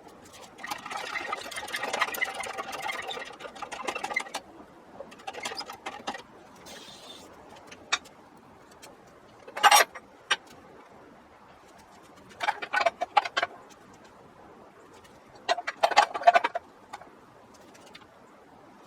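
Metallic clicking and clinking from hand tools, in about five short spells of rapid clicks with quiet gaps between, and one sharp, louder click near the middle.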